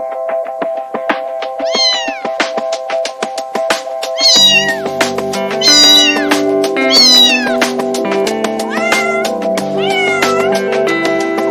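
Domestic cat meowing repeatedly, about six separate meows, each sliding down in pitch, over background music with a steady beat; deeper bass notes join about four seconds in.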